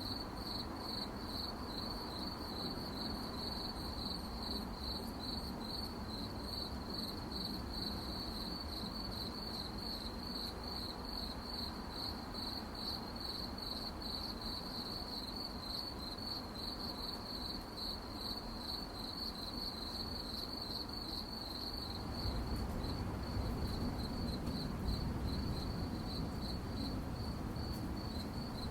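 Crickets chirping at night: a steady, rhythmic, high-pitched pulsing chirp. About three-quarters of the way through, a low rumble comes up underneath.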